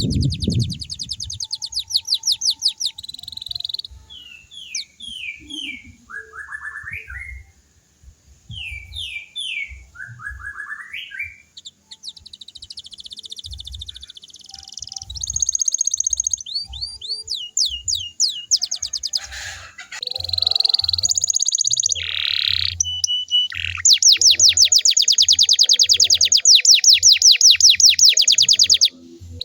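Canary singing a varied song of chirps, sweeping notes and short rolls, ending in a long, loud, very fast trill over the last five seconds.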